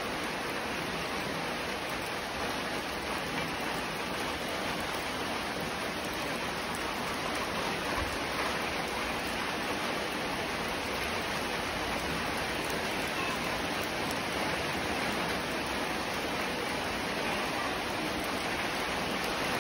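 Steady monsoon rain falling on puddled ground and trees, an even hiss.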